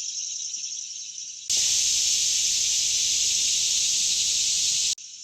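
Chorus of cicadas, a steady high-pitched buzzing drone. About a second and a half in it jumps much louder and fuller, then cuts off suddenly near the end, leaving the quieter drone.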